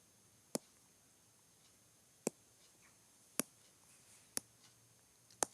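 Five sharp clicks at uneven gaps of about a second, over a quiet room background.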